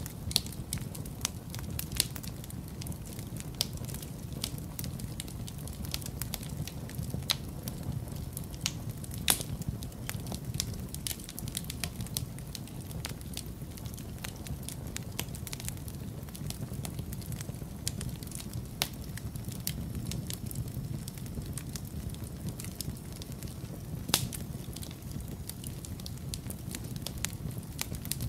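Wood fire in a fireplace crackling, with irregular sharp pops of varying loudness over a steady low rumble.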